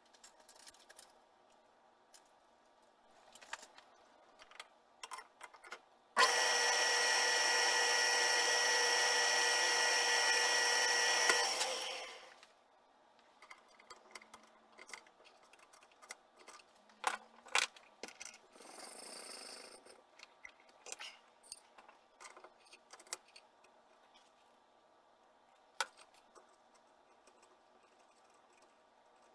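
An electric power tool's motor starts sharply, runs at a steady whine for about five seconds, then winds down. Scattered small clicks and knocks of handled metal parts come before and after, with a short hiss a little past the middle.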